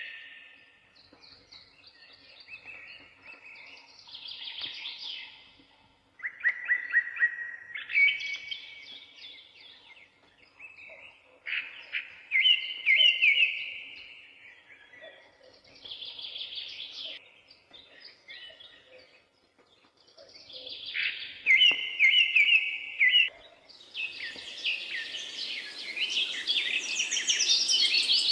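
Songbirds singing: short phrases of quick chirps and trills come every few seconds, and about three-quarters of the way through they give way to a denser, continuous chorus of chirping and trilling.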